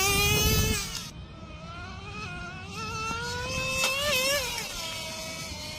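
RC car motor whining, rising in pitch as it accelerates, easing off about a second in, then climbing again to a peak near the end before falling away, over a low rumble.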